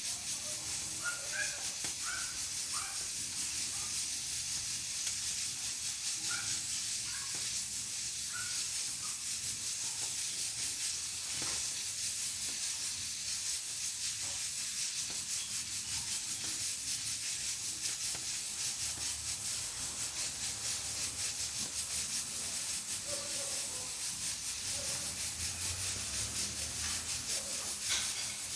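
Pressure cooker on a wood-burning stove hissing steadily as steam escapes from its valve. Faint short chirps and an occasional click sound over the hiss.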